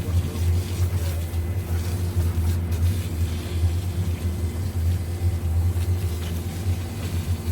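Diesel engine of a ready-mix concrete truck running steadily during the pour, a low even rumble with a steady hum above it.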